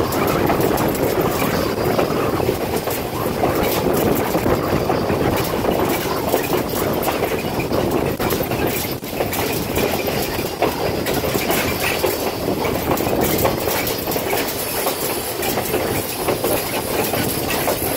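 Railway passenger car rolling along the track, a steady rumble with frequent clicking and clatter from the wheels on the rails.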